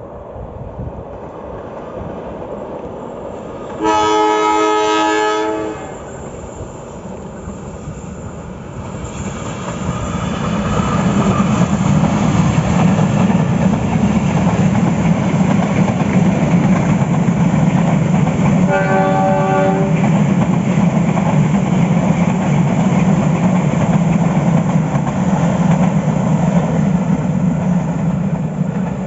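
A diesel-hauled Indonesian passenger train approaches and sounds a loud, melodious multi-tone horn for about two seconds, starting about four seconds in. It then runs past close by with a steady heavy rumble and gives a second, shorter and quieter horn blast a little past the middle.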